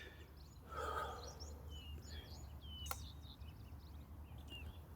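Birds chirping over a faint steady outdoor rumble, with a brief muffled sound about a second in and one sharp click near three seconds: a putter striking a golf ball.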